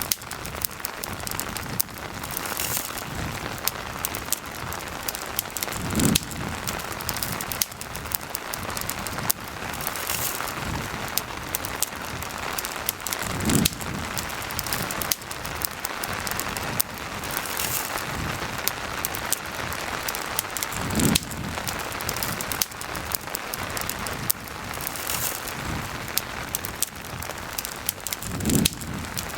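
Steady rain hiss mixed with the frequent sharp crackles of a campfire. A dull low thump comes four times, about every seven and a half seconds.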